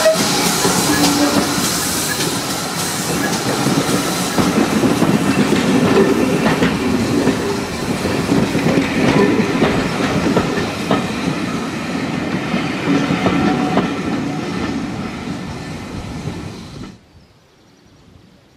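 Passenger coaches of a steam-hauled train rolling past close by, their wheels clicking over the rail joints. The sound cuts off sharply about seventeen seconds in, leaving only faint outdoor background.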